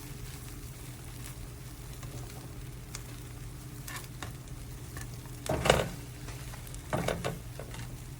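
Eggs frying in a hybrid stainless-and-nonstick griddle, with a steady low hum underneath. A spatula scrapes and knocks against the pan a few times, loudest a little past halfway and again about a second later.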